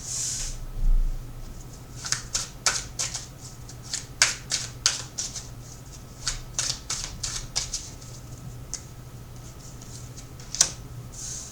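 Tarot deck being shuffled by hand: irregular runs of crisp card snaps and clicks, with a soft thump about a second in.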